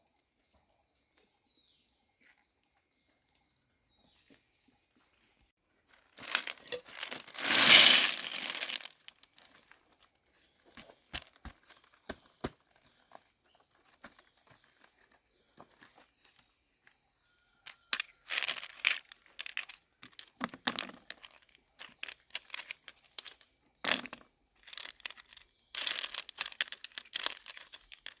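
Intermittent crinkling and rustling, like handling something crumply, with scattered small clicks. It is loudest in one long rustle about six to nine seconds in, and busier again in the last third.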